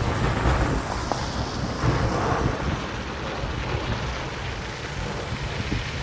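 Snowstorm wind buffeting the microphone, a loud noise that swells and eases in gusts.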